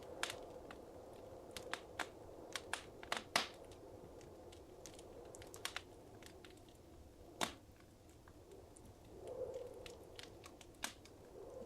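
Wood fire crackling in a fireplace: irregular sharp pops and snaps, a few louder than the rest, over a soft low rush of flame that swells about nine seconds in.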